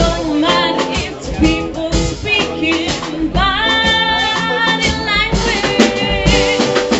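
Band music with drums and a singer holding long, wavering notes in the middle.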